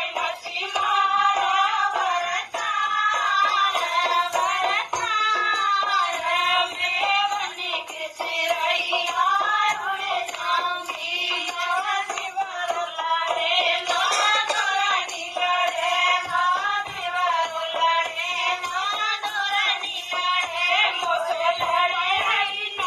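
Dehati folk song: a voice sings continuously over music, its melody bending and wavering in pitch.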